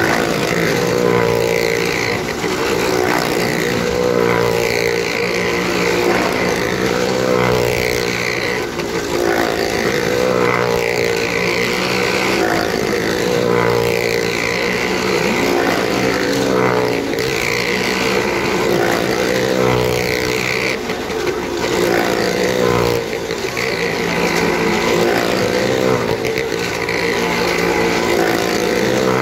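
Car and motorcycle engines running hard as the vehicles lap the vertical wooden wall of a well of death. The loud, steady engine sound rises and falls about every two seconds as each vehicle sweeps past.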